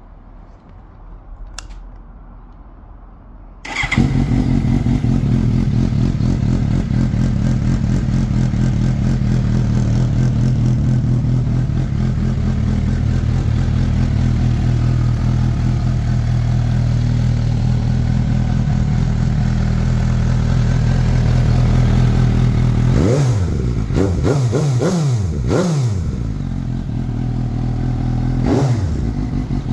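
Suzuki GSX-S750's inline-four engine breathing through a Scorpion aftermarket sports exhaust. It starts about four seconds in and then idles steadily. Near the end it is blipped in a quick series of revs, with one more short rev just before the end.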